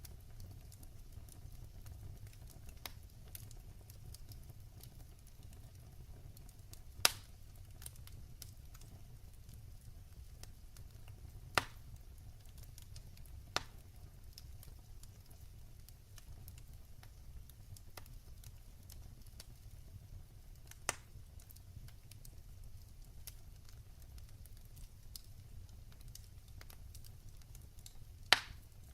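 Wood fire in a fireplace crackling: a low steady rumble of flames under a scatter of small ticks, with five sharp pops spread through, the loudest about seven seconds in and near the end.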